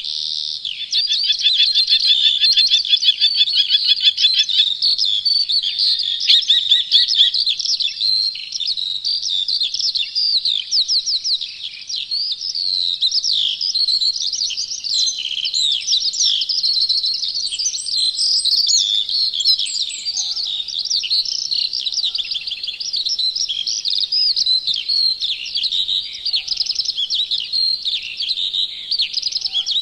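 Chorus of several songbirds singing at once: many overlapping high chirps and whistled glides, with a fast rapidly repeated trill in the first several seconds.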